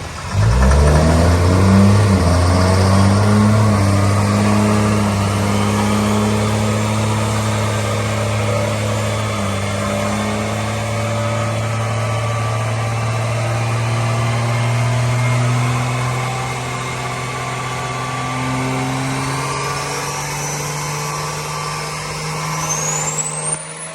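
A truck engine revs up sharply, then holds a steady high speed for about twenty seconds, with a thin high whine rising near the end.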